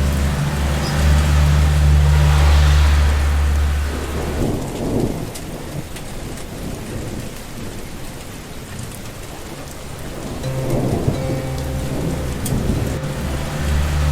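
Rain falling steadily in a thunderstorm, with a deep rolling rumble of thunder for the first few seconds that dies away, then builds again about ten seconds in.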